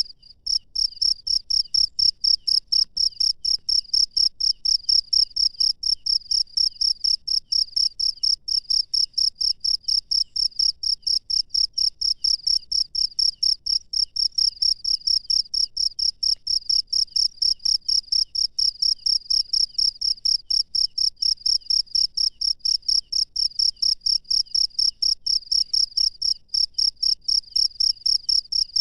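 A field cricket chirping: high-pitched, evenly spaced chirps at a steady rhythm of about three or four a second, without letup.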